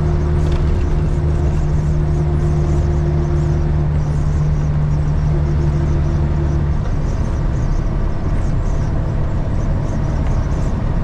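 Heavy truck's Cat 3406E diesel engine and road noise heard from inside the cab of a Freightliner FLD120 at highway speed. The steady engine hum drops away about seven seconds in, leaving the rumble of tyres and wind.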